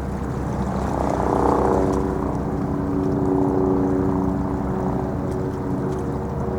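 A steady engine drone over a low rumble. A stack of steady tones comes in about a second in and holds, in the manner of a passing motor, and sits nearest a boat engine.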